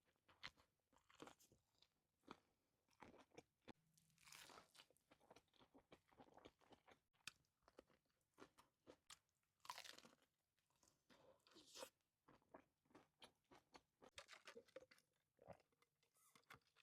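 Quiet, close-up chewing of a tuna melt sandwich: the toasted bread crunches and crackles in short irregular clicks, with a few longer crunches as it is bitten and chewed.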